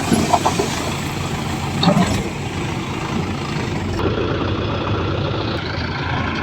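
Heavy diesel engine running steadily, with a few short knocks in the first two seconds.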